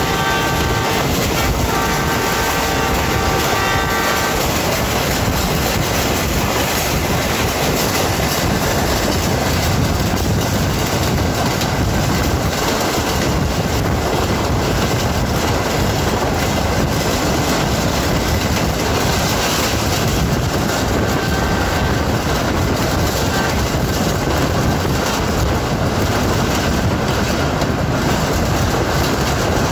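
A train's locomotive horn sounds a chord-like blast that ends just after the start, then a long blast of about three seconds that stops about four seconds in. After that comes the steady running noise of the moving passenger train on the track.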